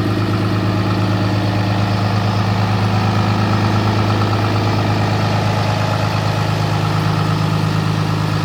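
Cummins ISB 6.7 inline-six diesel engine of a Freightliner M2106 truck idling steadily, with a low, even hum.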